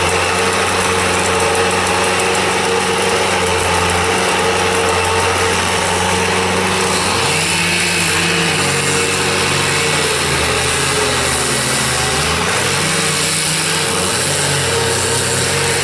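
An engine running steadily, its low pitch shifting up and down a few times in the second half.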